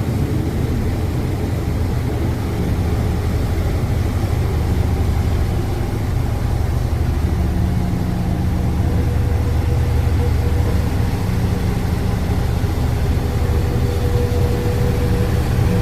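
A riverboat's engines running steadily, heard on board as a deep, even drone. Fainter humming tones come and go above it.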